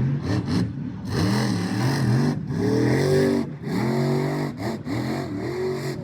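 Monster truck engine revving over and over, its pitch climbing and falling with each burst of throttle.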